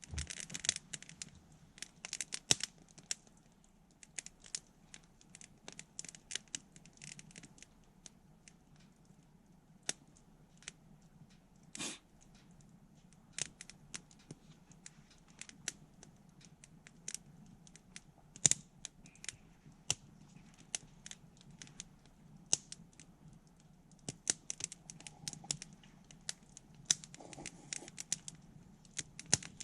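Wood campfire crackling, with irregular sharp pops and a few louder snaps scattered through.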